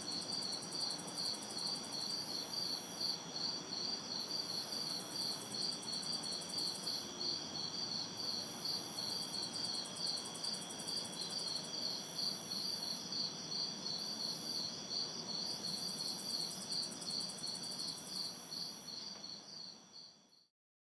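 Crickets chirping steadily in a dense chorus, with a higher insect buzz that comes and goes in bursts of about a second, over a faint hum of distant city traffic. The whole chorus fades out near the end.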